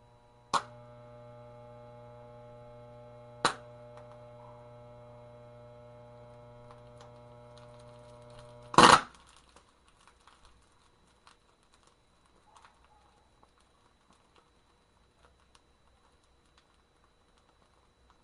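A click, then a steady electrical hum with a second click partway through, ended about nine seconds in by one loud, sharp bang, followed by scattered faint ticks and crackles.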